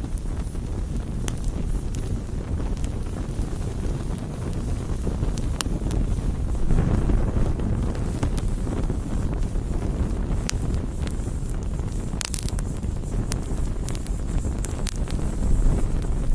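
Wood campfire burning: a steady low rush of flames with scattered sharp crackles and pops, swelling louder about halfway through.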